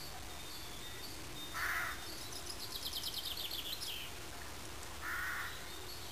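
Wild birds calling outdoors: two short harsh calls a few seconds apart, and between them a songbird's fast trill of rapidly repeated high notes lasting about a second and a half.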